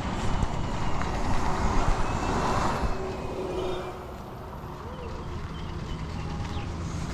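Roadside traffic: a vehicle passes close by, loudest in the first three seconds and fading about four seconds in, over a low steady engine rumble.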